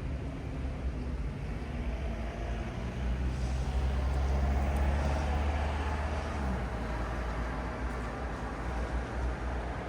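City road traffic at night: a steady low rumble of engines and tyres. A vehicle passes close by in the middle, its engine hum and tyre noise swelling and then fading.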